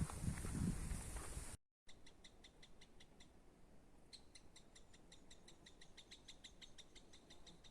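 Footsteps on a forest path, then after a cut a faint, even series of short high chirps repeating about five times a second, typical of a stridulating insect or a small bird in summer woodland.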